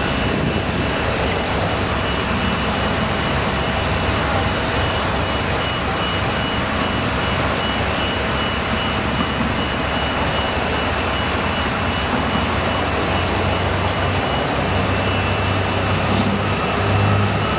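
Steady, loud machine noise with two constant high tones running through it and a low hum that gets stronger near the end.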